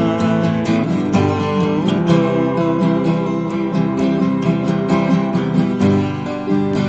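Acoustic guitar strumming chords steadily in an instrumental break of a worship song. A sung note ends about half a second in.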